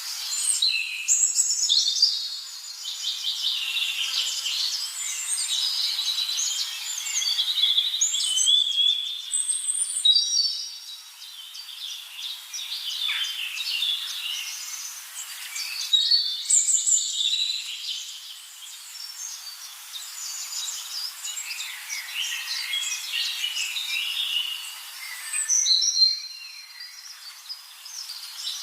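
Several birds singing at once, a dense chorus of high, quick chirps and trills that shifts abruptly a few times.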